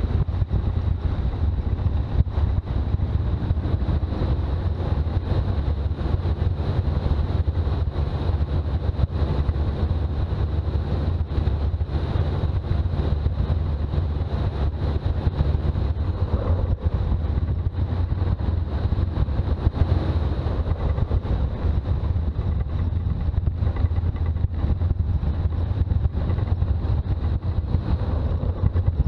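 Toyota BJ40's diesel engine running steadily on the move, with road noise: a constant low rumble.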